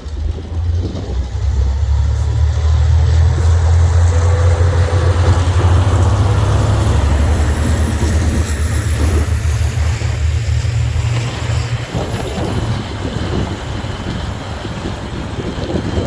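Freight train hauled by DC and DFT class diesel-electric locomotives passing by: a loud, deep engine drone is strongest about five seconds in and drops away about twelve seconds in. The drone gives way to the rumble and rattle of the wagons rolling on the rails.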